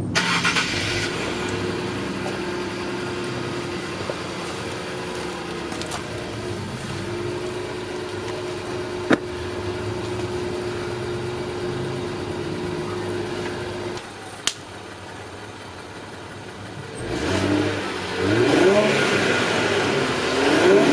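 Infiniti Q50 3.0t's twin-turbo V6 on its stock exhaust, cold-started. It catches, runs at a steady fast idle, and settles lower about 14 s in. From about 17 s it is revved several times, its pitch rising and falling.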